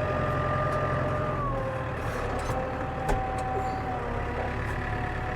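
Tractor engine running steadily as it works across a field; its pitch drops about a second and a half in and picks up again near the end. A single sharp click comes about three seconds in.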